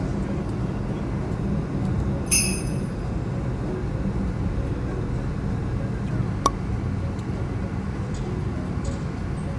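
Car engine running steadily, with a ringing metallic clink a little over two seconds in and a sharp click later.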